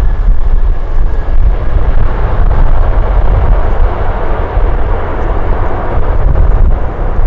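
Jet airliner's engines heard as a rushing roar that swells through the middle, with strong wind buffeting the microphone as a heavy low rumble.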